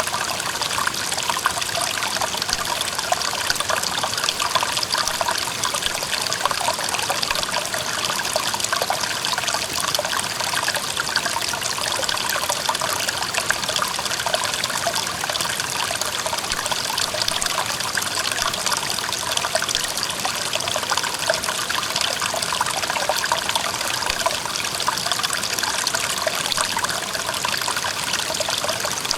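Clear mountain stream trickling and babbling over rocks, a steady flow of many small splashes and gurgles.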